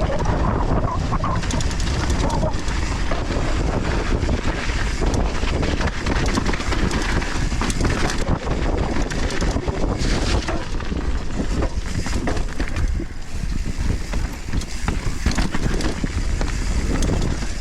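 Mountain bike descending a dirt trail: wind buffeting the helmet-camera microphone, with tyres on loose soil and the bike rattling and knocking over bumps throughout.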